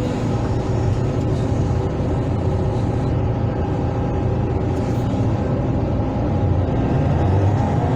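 Hydraulic excavator's diesel engine running steadily under working load, a low, even drone.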